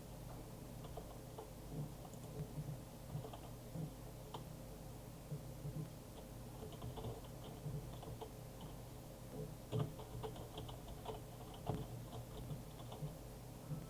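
Irregular light clicks and taps, coming thicker in the second half, over a faint steady low hum.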